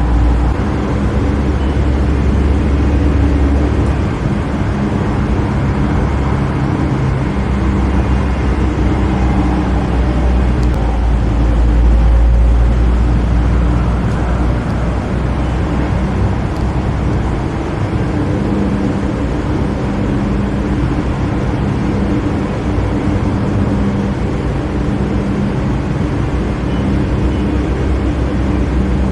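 Metro E Line light-rail train running between stations, heard inside the car: a steady, loud, low rumble with a faint hum that comes and goes.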